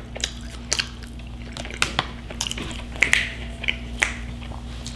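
Close-up chewing of a forkful of fried mac and cheese ball: a run of short, irregular clicks and crunches from the mouth.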